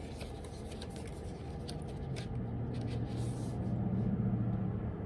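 A low steady hum that swells past the middle and eases off near the end, with a few faint clicks about two to three seconds in.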